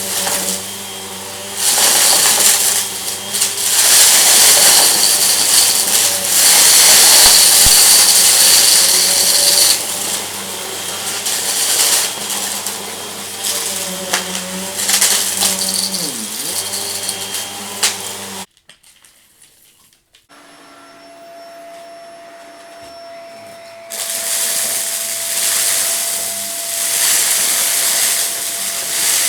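Vacuum cleaner running over a rug, sucking up crunchy debris with crackling and rattling. The motor sound cuts off suddenly about two-thirds of the way through, leaving a quiet stretch with a faint steady tone, and a loud hissing noise starts again near the end.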